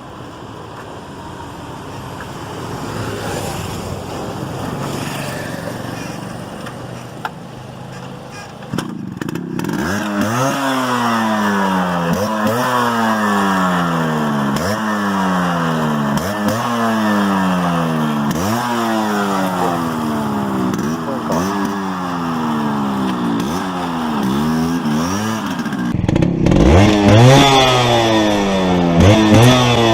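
Yamaha RX-135's single-cylinder two-stroke engine idling, then blipped over and over, each rev climbing quickly and dropping back to idle, about one every two seconds. The revs get louder near the end.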